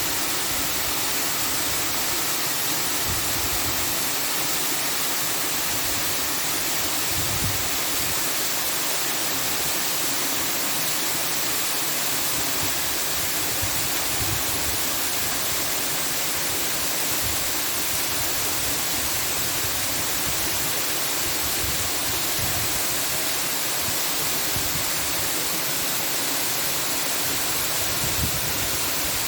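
Steady, even rushing noise, unbroken and unchanging, like falling water or hiss.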